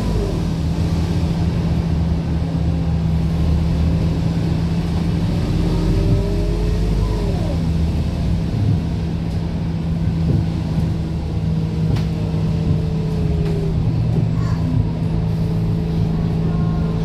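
Scania K230UB city bus running, heard from on board: a steady low engine and drivetrain drone with road rumble, and faint gliding tones above it.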